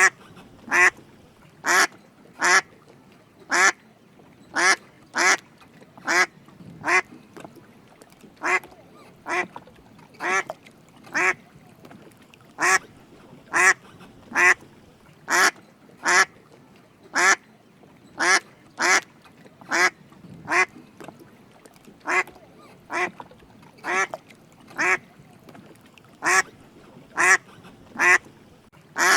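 Drake mallard calling with short, single quacks repeated evenly at about one a second.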